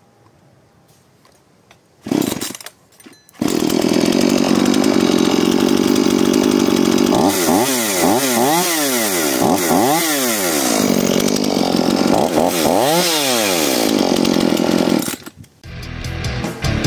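Petrol chainsaw: a short burst of engine noise about two seconds in, then the saw runs loud and steady at high revs for about eleven seconds before cutting off. Heavy rock music comes in near the end.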